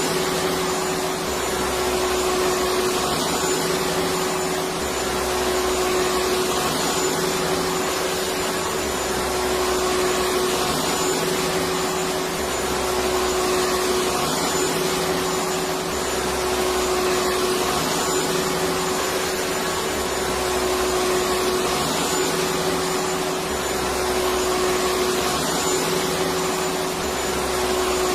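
Electric vacuum cleaner running steadily: a dense rushing motor noise with a steady hum tone, its loudness swelling and easing gently every few seconds.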